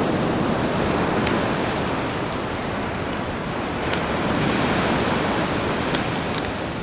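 Sea waves washing ashore in slow swells, with a campfire crackling in small sharp pops over the surf.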